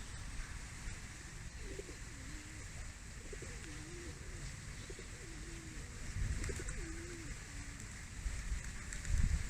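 A pigeon cooing: a series of about five low, wavering coos, over a low rumble.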